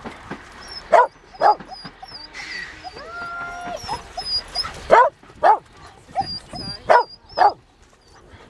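A dog barking in short, sharp pairs, three times over, with a brief steady tone in between.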